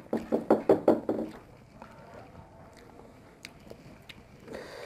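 Someone chewing mera pitha (soft steamed rice-flour dumplings): a quick run of chewing sounds, about five a second, for the first second or so, then only a few small clicks.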